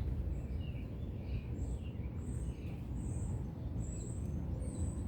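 Small birds chirping: short high chirps repeat about once or twice a second, with a few lower calls among them, over a steady low outdoor rumble.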